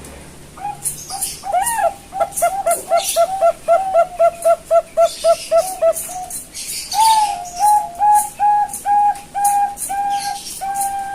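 Young Bangkok-line zebra dove (perkutut) cooing. First comes a quick, even run of short coos, about three a second; after a brief pause comes a slower series of longer, held coos, about two a second. Faint high ticks or chirps run in the background.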